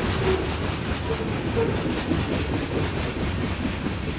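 Covered hopper cars of a grain train rolling past, a steady rumble of steel wheels on rail with faint clicks.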